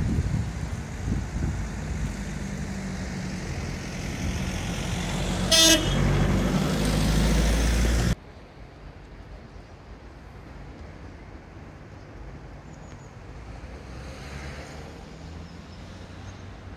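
GWR Intercity Express Train running beneath the bridge on its diesel engines, a heavy rumble with a steady engine drone, and one short, loud horn toot about five and a half seconds in. The rumble cuts off sharply after about eight seconds, leaving faint outdoor background.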